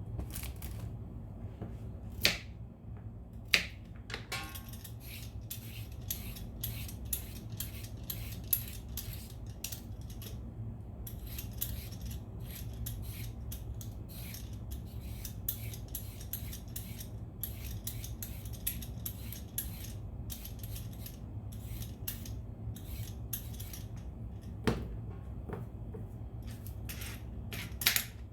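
Vegetable peeler scraping along a root vegetable in quick, repeated strokes, with a few louder knocks against the work surface, over a steady low hum.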